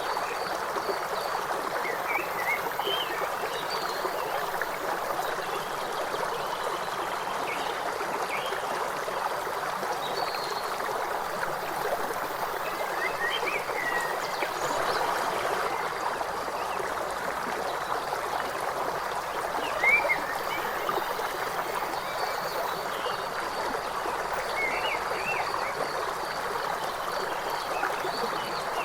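River water rushing and trickling steadily, with short bird chirps breaking in now and then, a few seconds apart.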